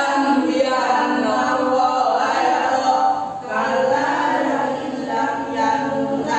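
A group of voices singing together in unison without instruments, holding each note briefly before moving to the next, with a short break about three seconds in.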